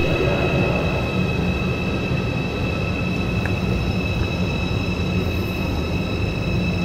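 Deutsche Bahn ICE high-speed train on the platform track: a steady low rumble with constant high-pitched whining tones over it.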